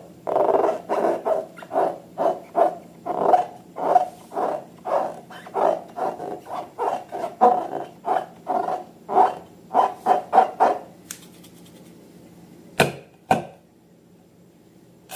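Slime being squeezed and kneaded by hand, squelching in a steady rhythm of about two or three squishes a second, which stops about eleven seconds in. Two sharp clicks follow shortly after.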